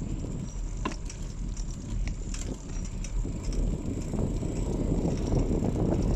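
Bicycle riding along a road: a steady low rush of wind on the microphone and tyre noise, with scattered small clicks and rattles from the bike.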